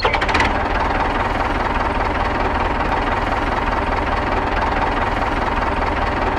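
Small engine of a homemade mini tractor running steadily with a fast, even pulsing. It starts abruptly at the outset.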